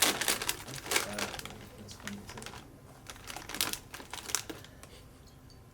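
Crinkling of a plastic snack bag being handled, in irregular crackles that thin out toward the end.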